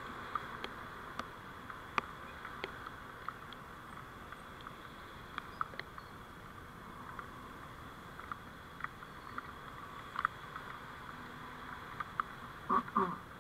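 Road and vehicle noise picked up by a dashcam microphone while driving: a steady hiss with a faint constant high whine, dotted with small irregular clicks and ticks. A brief louder rattle comes near the end.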